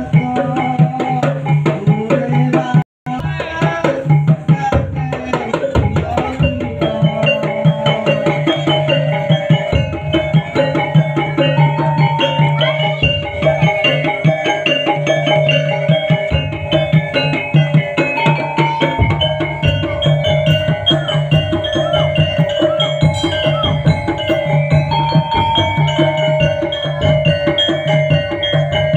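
Topeng Ireng dance accompaniment: fast, dense drumming with ringing, gong-like held tones over it. The sound drops out for a moment about three seconds in.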